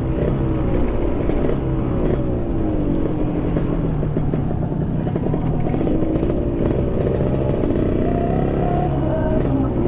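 Yamaha RX-King 135cc two-stroke single-cylinder motorcycle running loud through an aftermarket PDK exhaust, its revs rising and falling again and again.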